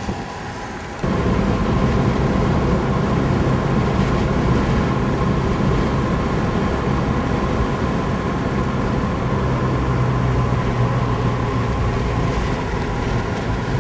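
Car driving, heard from inside the cabin: steady road and engine noise with a low hum, jumping suddenly louder about a second in and then holding even.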